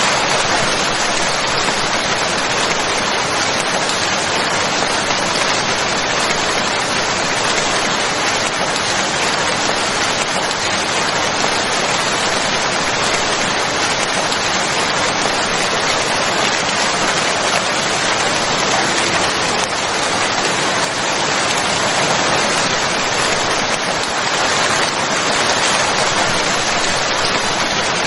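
Steady rain, an even unbroken hiss of falling rain with no thunder or other events.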